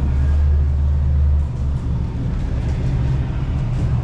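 A car engine's low rumble, loudest for the first second and a half, then dropping to a lower steady rumble.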